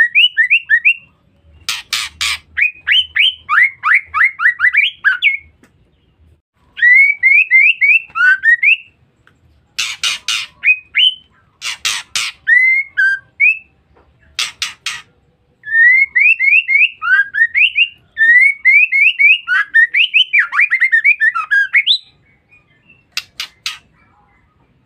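Female white-rumped shama calling: bursts of quick rising whistled notes, several a second, broken by short harsh rasping calls.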